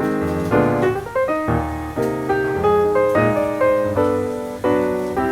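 Background piano music: a run of chords and melody notes, each struck and then fading.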